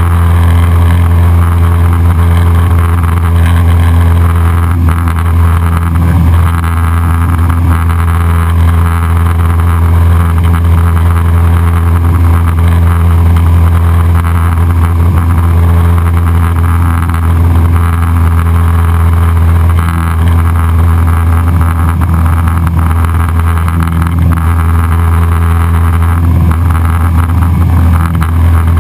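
Cessna 172SP Skyhawk's four-cylinder Lycoming IO-360 engine and propeller running steadily: a loud, constant drone.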